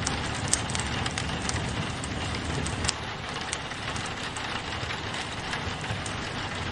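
Wood fire crackling with irregular sharp pops over a steady hiss of rain on a window, with a low rumble underneath.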